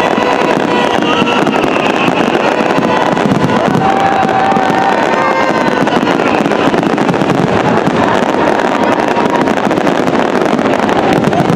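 Fireworks display going off in a dense, continuous barrage of bursts and crackle, with short whistles rising and falling over it.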